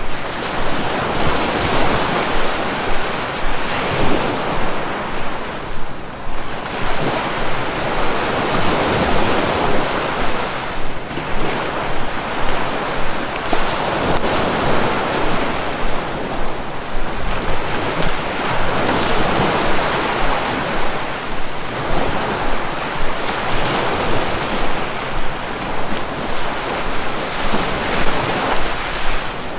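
Sea waves breaking and washing on a shore, a continuous rush that swells and ebbs every few seconds.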